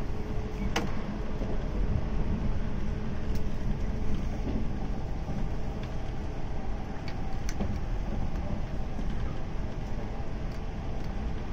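JNR Series 185 electric multiple unit running along the line: a steady rumble of wheels on rail, with a few short sharp clicks scattered through it.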